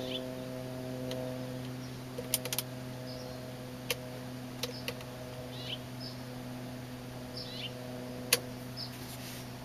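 Small birds chirping, short falling chirps about once a second, with a few sharp clicks, over a steady low mechanical hum.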